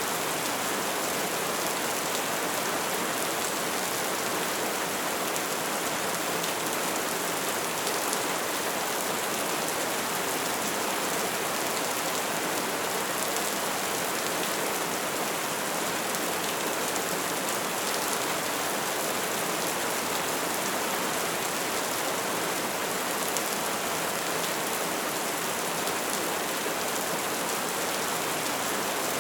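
Wood fire burning: a steady hiss packed with fine crackles, with a few slightly sharper pops.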